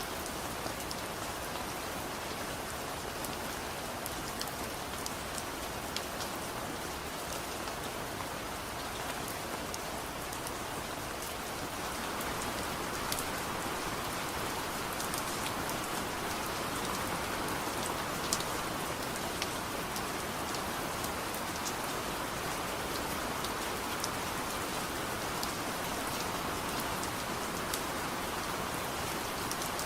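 Steady soft rain falling, with scattered small sharp ticks through it, growing a little louder a little under halfway through.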